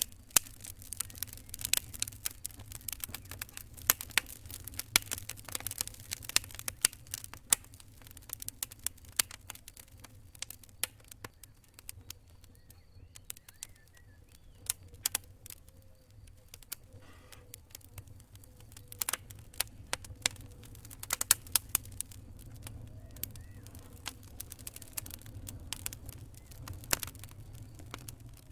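Campfire crackling: irregular sharp snaps, bunched into quick clusters at times, over a low steady rumble of the fire.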